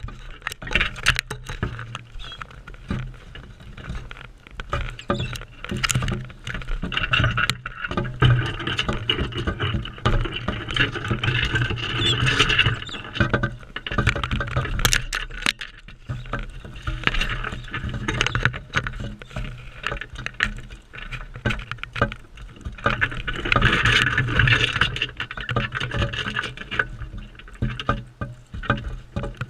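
Crimson rosellas feeding close to the camera: many irregular taps and clicks of beaks and feet on the feeder, over a steady low rumble.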